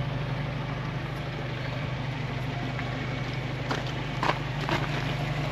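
Car engine running steadily, with three short sharp clicks a little under four seconds in.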